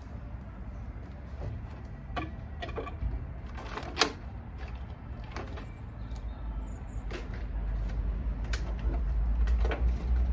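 Scattered knocks and clicks of hands and tools working on an old washing machine being stripped down, the loudest knock about four seconds in, over a low rumble that grows louder in the second half.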